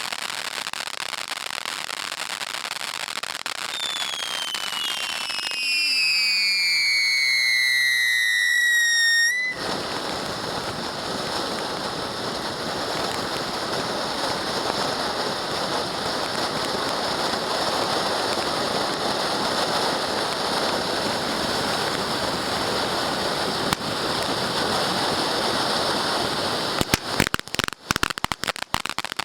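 Temple of Heaven Tiger's Roar XL firework fountain spraying with a steady hiss. From about four seconds in, loud whistles fall steadily in pitch and cut off sharply near ten seconds, while the hiss carries on. Near the end comes a run of sharp crackling pops.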